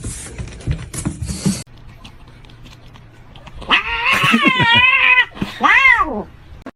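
A domestic cat yowling: a long yowl with a wavering pitch about four seconds in, then a shorter one that rises and falls. Before it, about a second and a half of rustling and clicking that cuts off suddenly.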